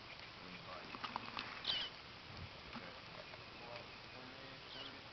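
Bluebirds in the nest giving a few short, high chirps, one clear chirp near the middle and a fainter one near the end, with a few light scratches or clicks about a second in.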